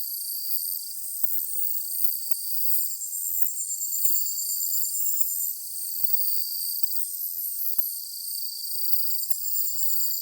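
A chorus of summer evening insects chirping and trilling together: several very high-pitched pulsed trills overlapping, some steady and some starting and stopping every few seconds, with nothing low underneath.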